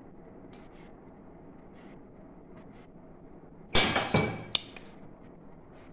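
Kitchenware clattering: a quick cluster of about four hard clinks and knocks with a short ring, a little before four seconds in, over faint small clicks.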